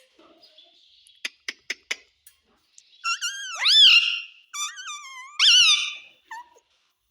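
Pet parrot vocalising: about four quick clicks a little over a second in, then a run of high calls that swoop up and down in pitch from about three seconds in.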